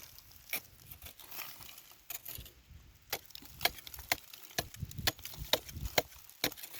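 Irregular sharp snaps and cracks of dry wood or brittle vegetation breaking, with a few dull low thuds, the snaps coming thicker in the second half.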